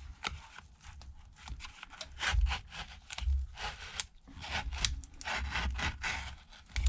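A pry tool scraping and rubbing under an iPad Pro's battery in short, irregular strokes, working through battery adhesive softened with alcohol, with dull bumps from handling the tablet.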